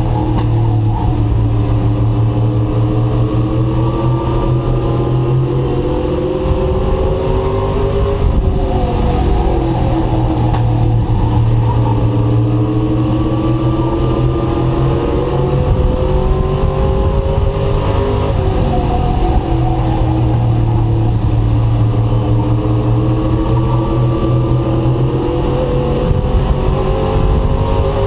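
Race truck engine heard onboard at racing speed. Its pitch climbs steadily for several seconds, then drops briefly before climbing again, twice, as the driver lifts off and gets back on the throttle.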